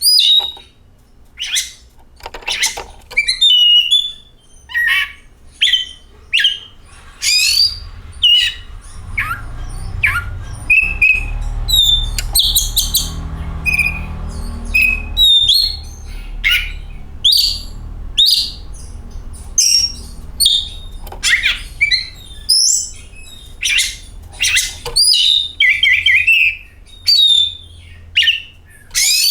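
Oriental magpie-robin (kacer) singing: a quick run of loud, sharp whistles and chirps that slide up and down in pitch, phrase after phrase with short gaps. A low rumble sits beneath the song in the middle.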